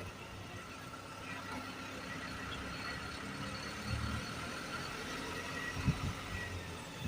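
Isuzu garbage truck's diesel engine running steadily, with a couple of low thumps partway through.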